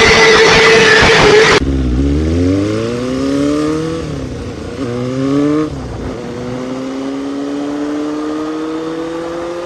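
Suzuki Bandit 400's inline-four engine accelerating hard, its pitch rising through a gear and dropping at each of two upshifts, then climbing slowly and steadily in a higher gear. A loud rushing sound fills the first second and a half and then cuts off abruptly.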